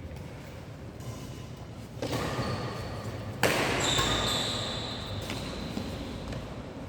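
Badminton play in a hall: a sharp racket hit on the shuttlecock about three and a half seconds in, with short high squeaks from shoes on the court floor around it.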